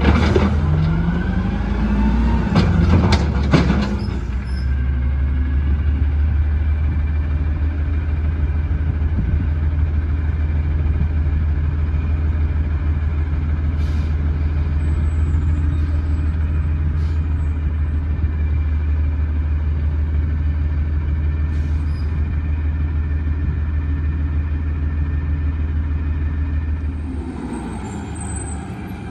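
Garbage truck engine running with a steady low drone, busier with knocks and a rising pitch in the first few seconds, and dropping off a little near the end.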